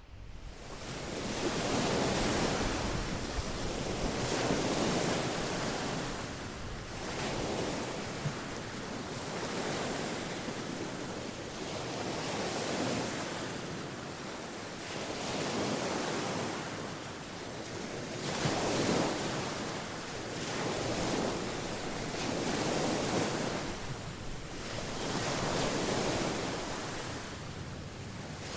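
Ocean waves breaking and washing on the shore, swelling and fading every two to three seconds, with some wind rumble on the microphone.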